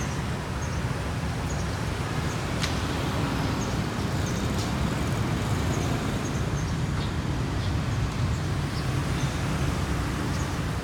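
Steady motor-vehicle and road traffic noise, a continuous low rumble, with a sharp click about three seconds in and faint short high chirps throughout.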